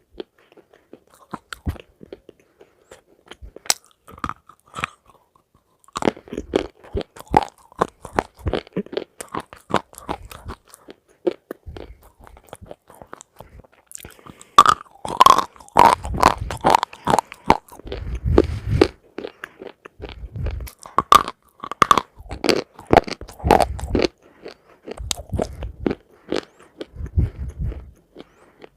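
Close-miked eating of crunchy food: bites and chewing with irregular crackling crunches. It is sparse at first, then turns dense and louder about halfway through.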